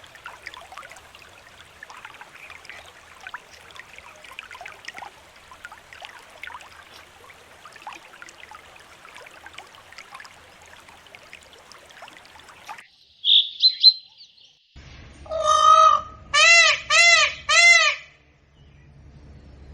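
Birds chirping faintly in the background. Near the end a louder whistled call sounds, then a run of loud, rising-and-falling bird calls: one longer call and three quick ones about half a second apart.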